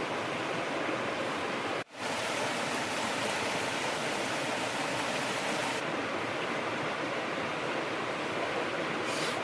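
Steady rushing noise, like flowing water, cut off for a moment about two seconds in.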